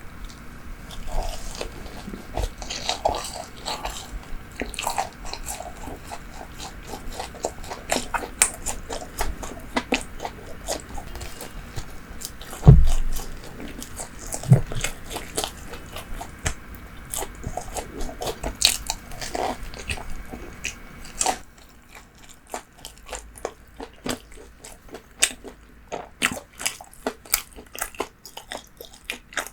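Close-miked eating of bakery food: bites and chewing with sharp crackles and crunches. There is a dull thump about halfway through, and the chewing is sparser and quieter near the end.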